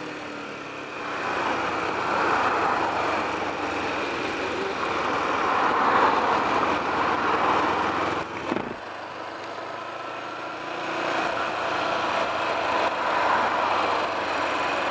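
Kawasaki EL250 motorcycle being ridden: wind rushing over the microphone with the engine running underneath, swelling and easing with speed, dropping away briefly about eight seconds in.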